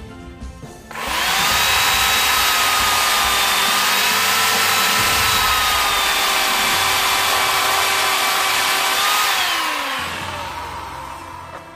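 An electric power tool starts up about a second in and runs steadily at full speed with a high whine. Near the end it is switched off and winds down, its pitch falling as it coasts to a stop.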